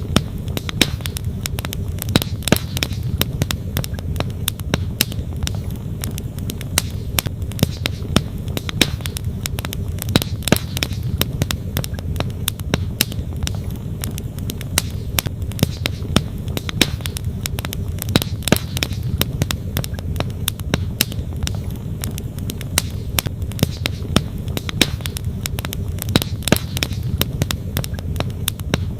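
Wood campfire crackling, with frequent sharp pops and snaps, over the steady low rush of a flowing stream.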